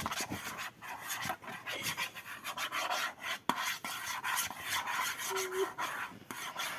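Writing on paper by hand: a continuous irregular scratching and rubbing of the writing tip across the page, with a brief faint squeak just past five seconds in.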